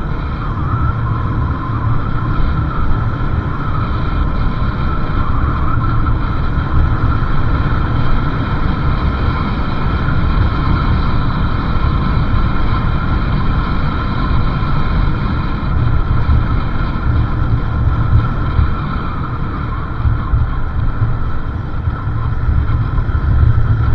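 Motorcycle riding along a road: steady engine and road noise with heavy wind buffeting on the microphone.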